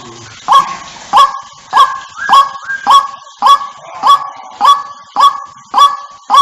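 White-breasted waterhen calls from a bird-lure recording: a loud, regular series of short sharp calls, each rising quickly into one held pitch, just under two per second.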